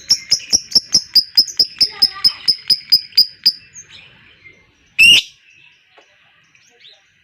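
Lovebird giving its long chattering trill ('ngekek'): a fast, even run of sharp high 'kek' notes, about five a second, dropping slightly in pitch until it stops about three and a half seconds in. One loud harsh call follows about a second and a half later.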